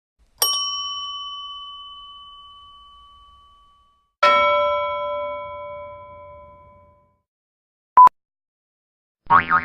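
Two separate "ding" sound effects, each a single bell-like strike ringing out and fading over a few seconds, the second lower in pitch than the first. Near the end comes a very short beep, then the start of another, wobbling effect.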